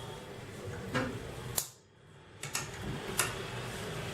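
A few light clicks and knocks from handling metal bench equipment, over a faint steady hum, with a brief drop to near silence in the middle.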